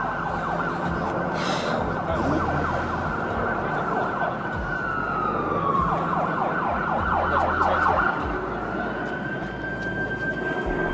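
Emergency vehicle siren wailing. Its pitch sweeps down a little after four seconds in and climbs back up near the end.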